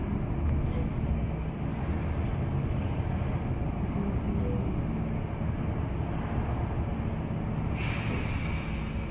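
Bus engine and road noise running steadily, heard from inside the bus, with a short hiss of released air about eight seconds in.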